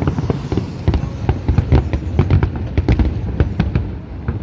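Fireworks display going off: a rapid, irregular barrage of sharp cracks and pops over a continuous low rumble of bursting shells.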